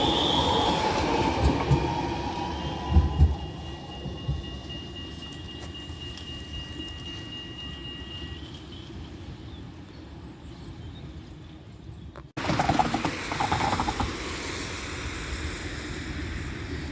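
A tram passing on its rails, wheels squealing with a steady high tone that fades out about eight seconds in, a rumble, and a few heavy thumps about three seconds in. The sound then cuts abruptly to a steady background noise.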